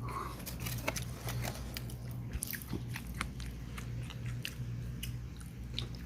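Wood campfire crackling and popping: irregular sharp snaps, several a second, over a low steady rumble.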